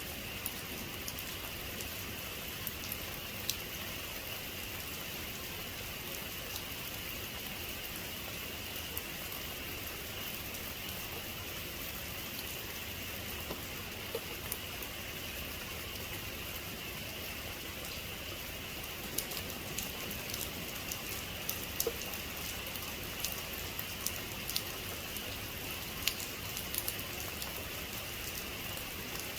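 Steady heavy rain falling, an even hiss with scattered sharper drop ticks that come more often in the last third.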